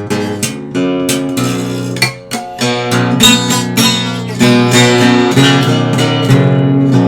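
Guitar strummed in a steady rhythm: an instrumental passage of the song, with no singing.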